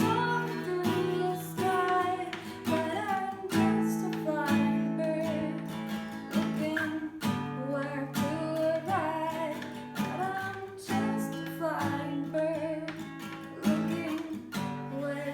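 An acoustic guitar strums chords while a melody line, likely a voice singing without clear words, moves over it.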